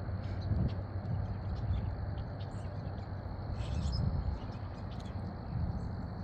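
Low, uneven wind rumble on the microphone, with a steady high-pitched insect drone and a few faint chirps.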